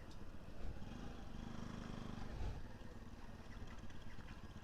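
Faint vehicle engine running at low revs amid steady outdoor background noise; the engine note stands out briefly about a second and a half in.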